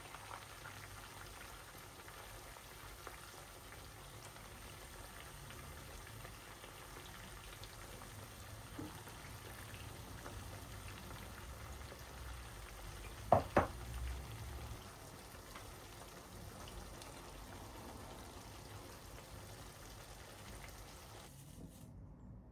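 A pot or pan of food bubbling and sizzling on the stove, a steady faint hiss, with two sharp metallic clinks close together about halfway through. The sound cuts off abruptly near the end.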